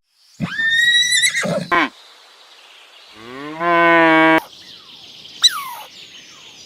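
A cow mooing once, a low, drawn-out moo of about a second, some three seconds in. Before it comes a shorter, high-pitched animal call, and near the end a brief falling cry.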